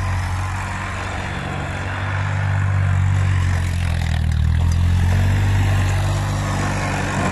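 Tractor diesel engine running steadily under load, its pitch sagging slightly about a second in and picking up again around the middle.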